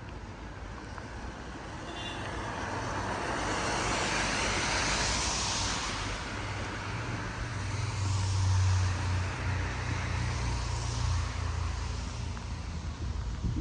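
Cars passing on a rain-wet road, their tyres hissing on the water; the hiss swells and fades, loudest about five seconds in, with more vehicles passing near the middle and again later, over a low engine hum.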